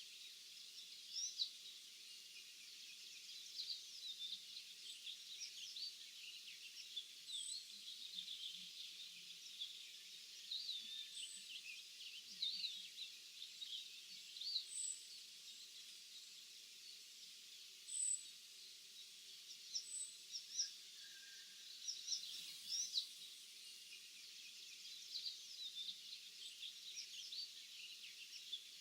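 Several small songbirds singing and chirping at once in a quiet field, with many short quick notes overlapping and a few thin high notes now and then.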